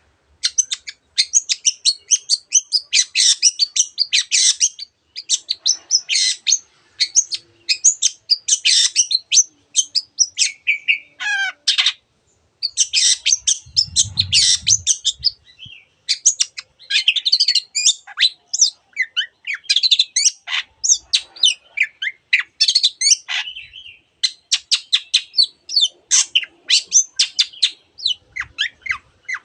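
Long-tailed shrike (cendet) singing: a rapid, varied stream of scratchy chattering and chirping notes, rich in mimicry of other birds' calls, broken by a few short pauses.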